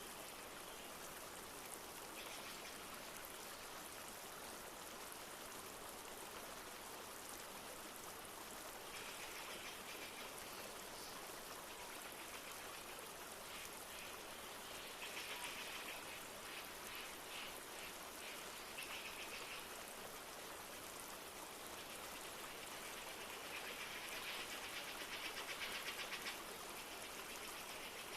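A river flowing steadily with light rain falling. Bird trills rise over the water several times, the loudest near the end.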